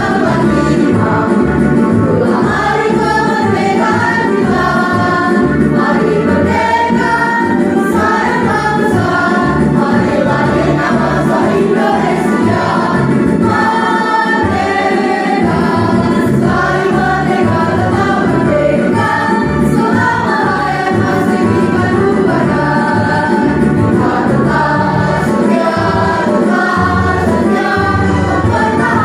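A mixed school choir singing in unison over a backing track with a steady low beat.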